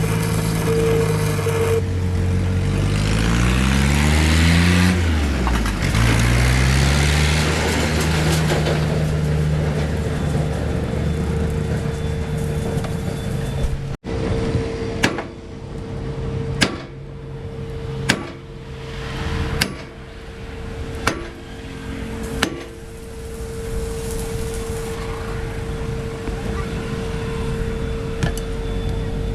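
A motor running with its pitch shifting up and down. After an abrupt cut, six sharp knocks come about every second and a half over a steady hum.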